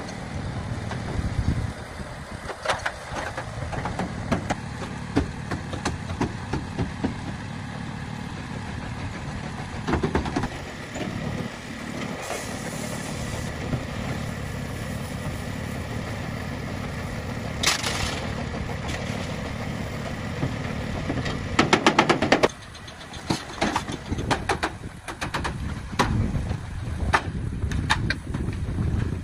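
A vehicle engine running steadily, with many sharp knocks and clatters over it, loudest in a burst a little past the middle.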